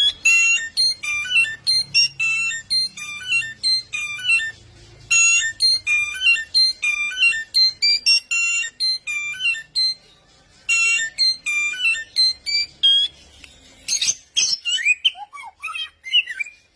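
A songbird singing loud, high-pitched phrases repeated quickly, about two a second, breaking off for a couple of seconds midway and then resuming. Near the end a sharp click comes, followed by a few sliding notes.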